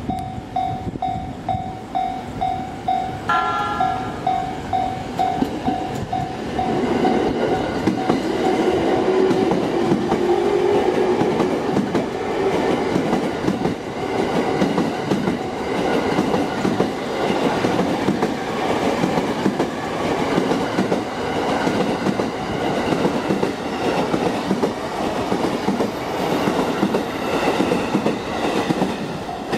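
Level-crossing warning bell dinging about twice a second, then a short horn blast about three seconds in. Then a JR East E231/E233-series electric commuter train passes close by, its wheels clattering over the rail joints, with a whine that rises slightly in pitch as it picks up speed.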